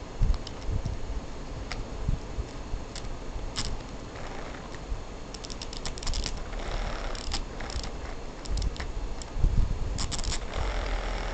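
Irregular clicking and rattling as a dachshund plays with a pull-string cat toy, with bunches of quick clicks about halfway through and again near the end.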